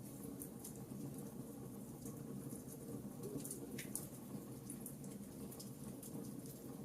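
Fire crackling in a fireplace: irregular small crackles and pops over a steady low rumble of the flames.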